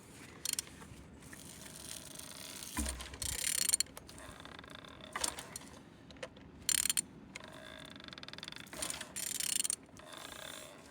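Ratchet wrench clicking in several short bursts as a used engine (1A391) is turned over by hand; the engine turns well and is not seized.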